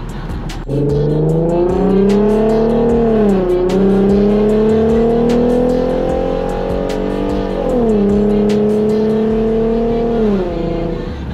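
Infiniti Q50's V6, fitted with an aftermarket cat-back exhaust and resonated test pipes, pulling hard under acceleration: the loud exhaust note climbs in pitch, drops sharply at two upshifts about three and a half and seven and a half seconds in, then falls away near the end as the throttle is lifted.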